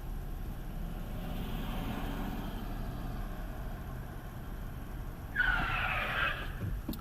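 Car road and engine noise from a dashcam, then about five and a half seconds in a sudden, louder tyre screech that lasts about a second and a half.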